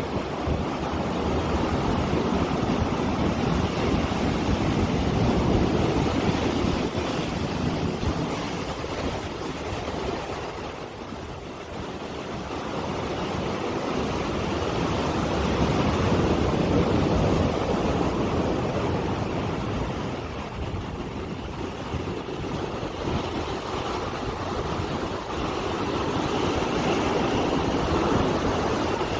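Surf from a rough sea, a steady rush of water that swells and eases every ten seconds or so, with wind on the microphone.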